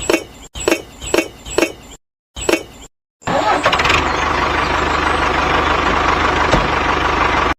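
Five short plopping blips in quick succession, then a tractor engine starting up about three seconds in and running steadily with an even low throb. It cuts off abruptly.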